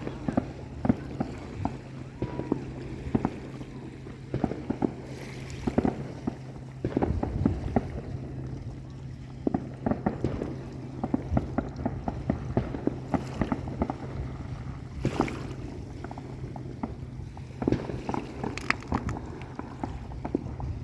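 Fireworks going off: irregular sharp pops and bangs, at times several a second, over a steady low hum.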